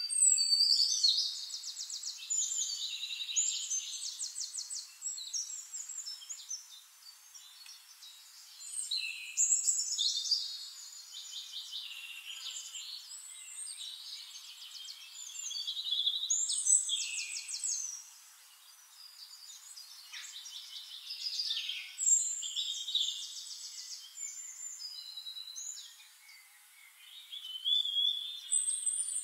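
Birds singing: bursts of quick, trilling chirps, with a new burst every few seconds.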